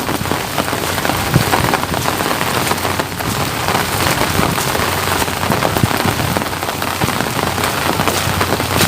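Steady rain falling: a dense, even hiss with many close-spaced drop ticks.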